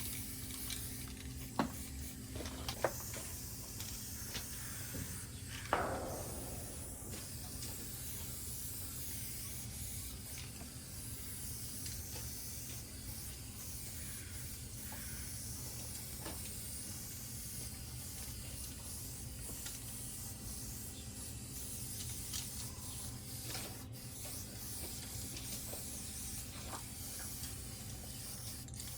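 Aerosol spray paint can hissing steadily, with a few sharp clicks in the first six seconds.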